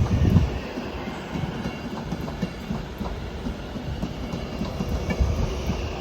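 A train moving along the track: low wheel-on-rail rumble with irregular knocks, easing off in the middle and building again near the end.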